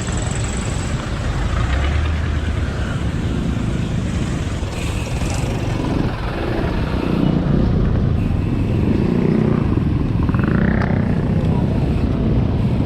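Road traffic with vehicle engines running and road noise, steady and fairly loud, heard while riding in slow traffic.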